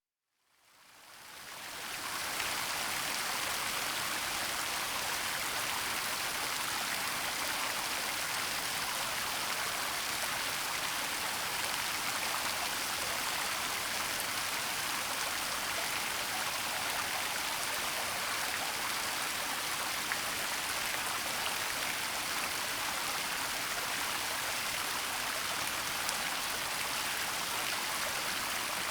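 Waterfall: a steady, even rush of falling water, fading in over the first two seconds.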